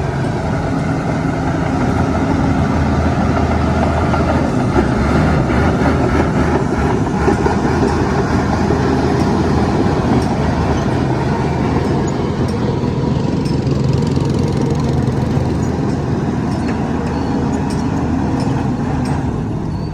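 Heavy diesel engine of earthmoving machinery running steadily at a constant, even pitch.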